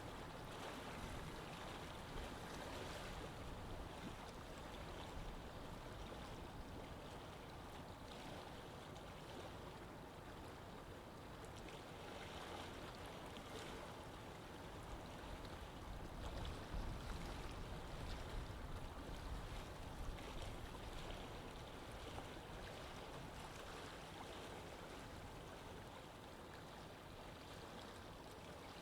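Water flowing steadily in a canal, a continuous rushing wash with a low rumble of distant city ambience under it.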